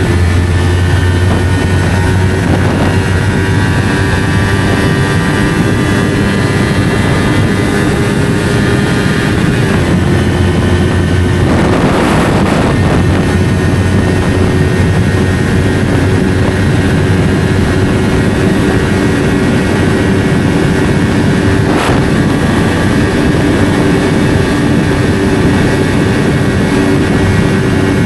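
Yamaha R3's 321 cc parallel-twin engine through an SC Project slip-on exhaust, riding at fairly steady revs with wind noise over it. A brief rush of noise comes about twelve seconds in.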